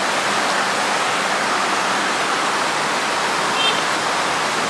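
Water rushing steadily through an old dam, a constant loud hiss. A brief high-pitched chirp sounds about three and a half seconds in.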